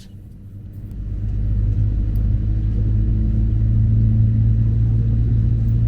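Airbus A321ceo jet engines spooling up to takeoff power, heard inside the cabin: a deep rumble with a steady low hum that swells about a second in, then holds loud and even as the takeoff roll begins.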